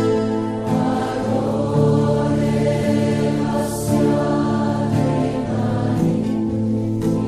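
Devotional chant music: voices singing in long, held notes over steady sustained tones.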